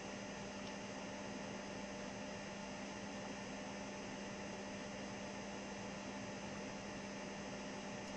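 Steady electrical hum with an even background hiss, the noise floor of the recording with nothing else sounding.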